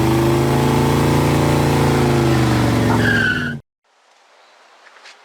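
Car engine held at high revs with tyres squealing, a burnout sound that cuts off abruptly about three and a half seconds in.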